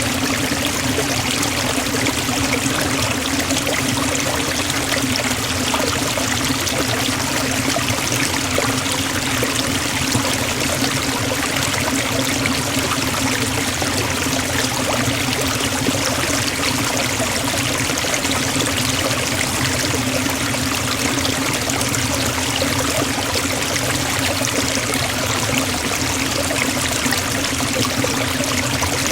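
Waterfall pouring steadily into a forest pool: an even, unbroken rush of water.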